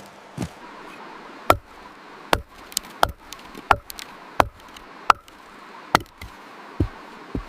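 A series of sharp knocks, about one every three-quarters of a second, each short with a little ringing after it.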